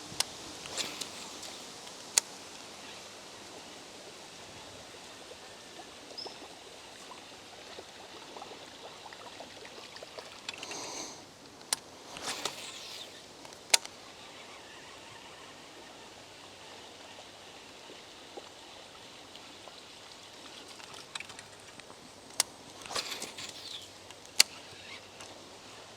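Steady outdoor background hiss broken by several sharp clicks, coming in pairs about two seconds apart, and a few short rushing bursts: the sounds of an angler making repeated lure casts.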